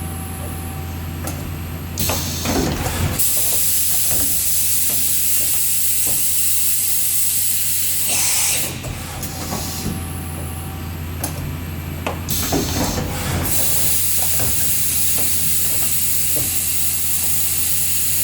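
Mazak FH4800 horizontal machining center running, with a steady low hum under it. Twice, for about five seconds each, a loud hiss of spray or air comes on and then cuts off, with clicks and knocks of the machine's mechanisms in between.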